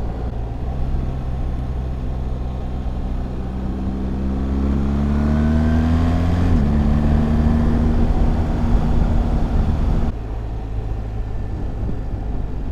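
BMW R1300GS boxer-twin engine under way, pulling with rising revs, then a slight drop in pitch about halfway through as it shifts up. Near the end the throttle is rolled off and the engine note falls away to a quieter run.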